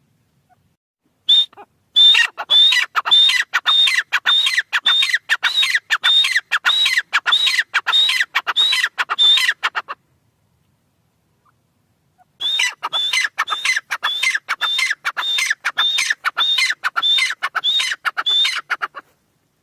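Irani teetar partridge calling: a long run of sharp repeated call notes, about two a second, in two bouts with a pause of a couple of seconds between them.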